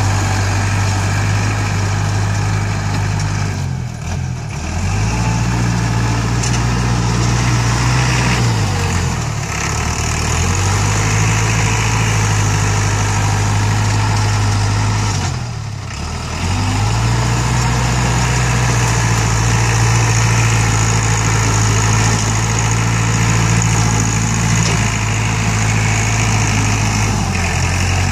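Diesel engine of an ISEKI NT554 tractor running steadily, its pitch dipping briefly and coming back up about four times as the revs drop and recover.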